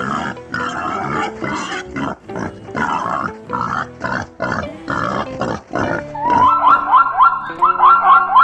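A series of short, rough animal calls, about two or three a second, over background music. About six seconds in they give way to a quick, repeated rising tone.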